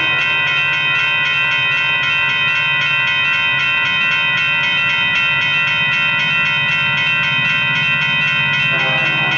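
Railroad grade-crossing warning bell ringing rapidly and steadily, over the low steady rumble of a train.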